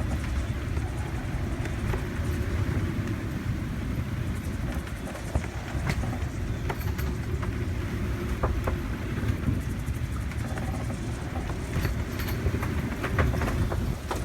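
Strong wind buffeting the microphone aboard a sailboat in heavy weather: a steady low rumble, with scattered sharp clicks and knocks.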